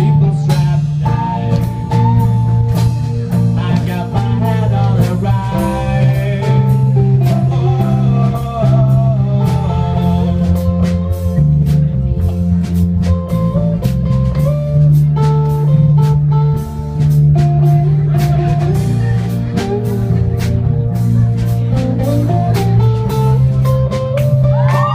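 Live rock band playing an instrumental passage: a guitar melody with bent notes over bass and a drum kit.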